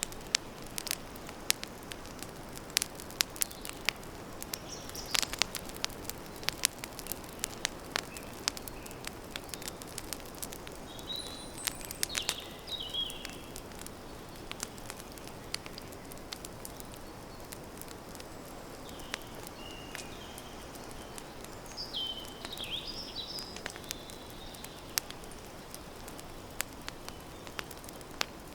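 Campfire crackling, with frequent sharp pops, denser in the first half, over a steady hiss. Short chirping bird calls come in now and then.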